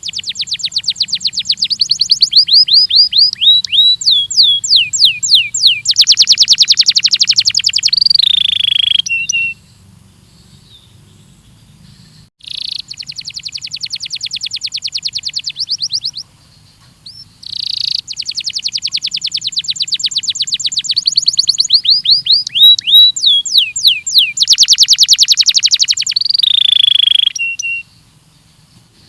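Belgian canary singing long phrases of fast rolling trills and rapid repeated notes, with falling glide notes, broken by short pauses about ten seconds, sixteen seconds and a second before the end. A faint steady low hum runs underneath.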